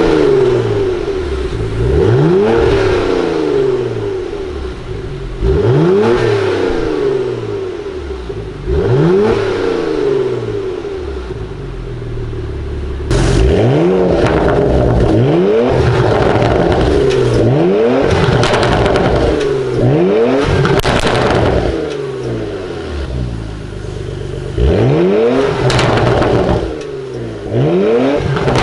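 Porsche Macan S's turbocharged V6 through a full Akrapovic titanium exhaust with its valves open, revving hard again and again: about eight sharp rises in pitch, each falling away, with one longer held rev near the middle. The revs come with crackles as the throttle closes.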